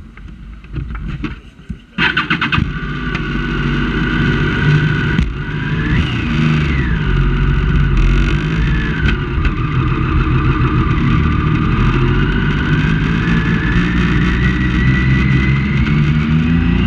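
Triumph Daytona 675 inline-three engine catching about two seconds in, then running steadily with a few brief rises and falls in pitch and a slow climb in revs near the end.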